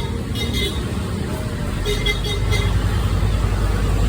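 Steady low rumble of a road vehicle and traffic, growing a little louder toward the end.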